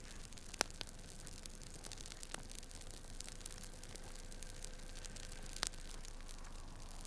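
Steady hiss with irregular sharp clicks and crackles; the two loudest come about half a second in and near six seconds.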